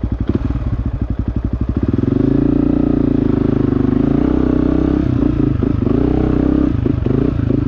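Dirt bike engine idling with an even pulse, then opening up about two seconds in and running at steady higher revs, with a few brief dips in revs near the end.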